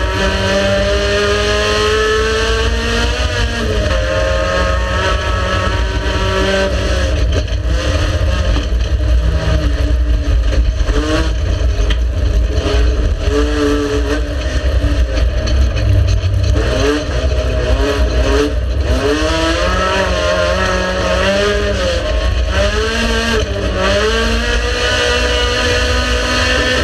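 Race car engine at full racing load, pitch climbing steadily under acceleration, then dropping at gear shifts and braking, with a heavy low rumble underneath. Several short rise-and-fall swings come in the second half as the car is worked through corners.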